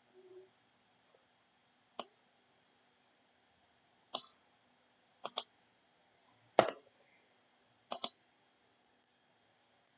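Short, sharp clicks spaced a second or two apart against a quiet background: single clicks about two and four seconds in, a quick pair a little after five seconds, a louder single click, then another quick pair near eight seconds.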